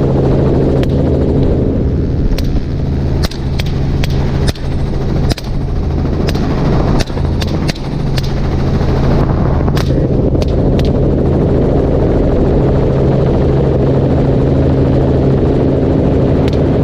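Helicopter running steadily, heard from on board, under a string of rifle shots fired from the aircraft. There are about fifteen sharp cracks, bunched mostly in the first ten seconds or so, some in quick pairs, and two more near the end.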